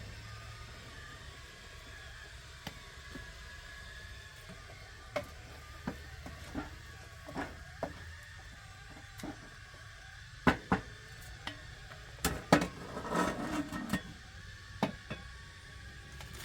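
A faint low rumble, then a series of irregular sharp knocks and clacks, growing louder and closer together in the second half with a short clattering run of hits.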